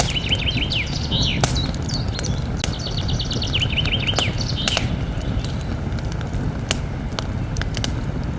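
Campfire crackling with scattered sharp pops over a steady low rumble, while a songbird sings two rapid trilled phrases in the first half.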